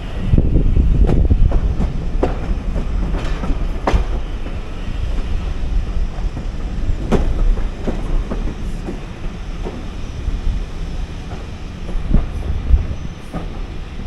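Railway carriage rolling along the track: a steady low rumble with irregular sharp clicks of the wheels over rail joints, heard from the carriage window. The rumble grows quieter in the second half.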